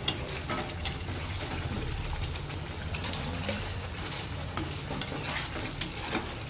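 Fish pieces in a yogurt masala sizzling in a steel kadai as they are sautéed down before water is added. A steel spatula stirs and scrapes through them, with a few sharp metal-on-metal clicks against the pan.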